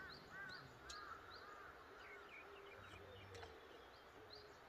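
Faint birdsong: a quick series of short arched calls, about three a second, in the first two seconds, over fainter high chirps that continue throughout.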